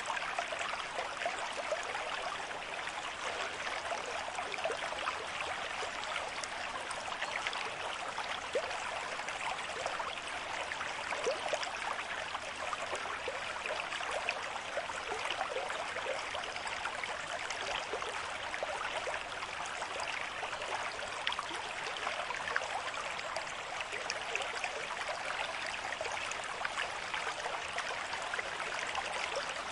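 River stream flowing steadily at a moderate rate: an even rush of water with many small splashes and gurgles.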